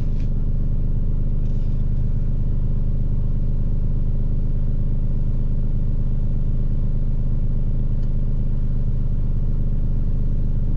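Truck's engine idling: a steady low hum that holds unchanged throughout, with a few faint light clicks over it.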